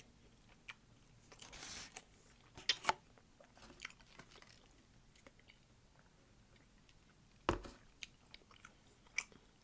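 Close-miked chewing of fries, with scattered small mouth clicks and a single dull thump about seven and a half seconds in.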